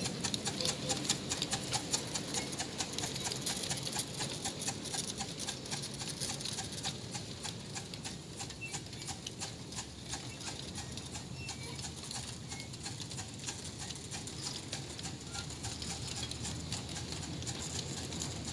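Live-steam miniature train running on its track: a rapid, steady rhythm of clicks and rattles over a low rumble.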